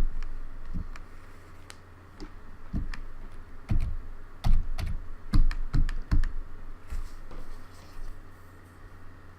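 Keys of a Logitech K360 keyboard being pressed by hand: a dozen or so irregular clicks with dull thumps, busiest in the middle.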